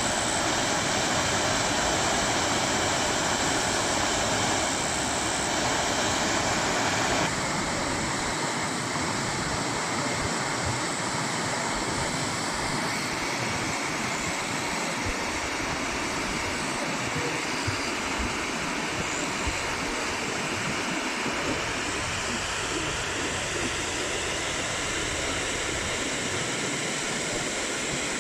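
Waterfall: water pouring and splashing in a steady rush. About seven seconds in the sound shifts, becoming slightly quieter and less bright.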